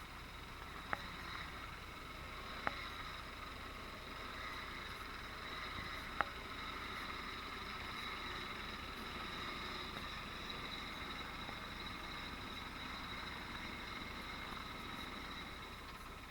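Small 9-horsepower engine of a homemade vehicle running steadily in fourth gear, with a steady whine and a few sharp clicks in the first six seconds.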